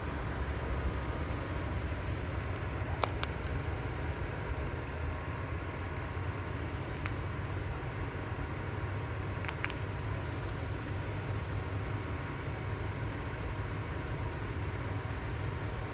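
Pickup truck engine idling steadily, a low hum with a few faint clicks about three, seven and nine and a half seconds in.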